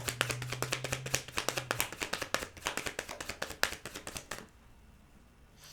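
Tarot cards being shuffled by hand: a rapid run of crisp card clicks that stops about four and a half seconds in.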